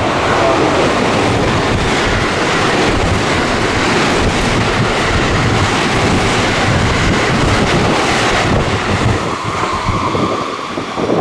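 Electric train rushing past a station platform at speed: a loud, steady roar of wheels on rail and air that eases off near the end.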